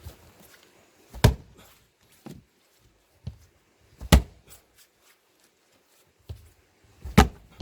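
Three heavy splitting blows into a plane-tree log, about three seconds apart, each a loud sharp thunk, with fainter knocks between them.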